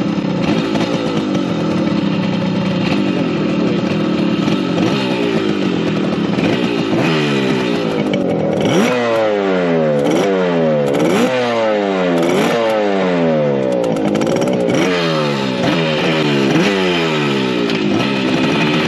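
A 1975 Yamaha RD200's two-stroke twin engine idling, then revved in a string of quick throttle blips from about halfway on, each rising sharply and dropping back, about one a second.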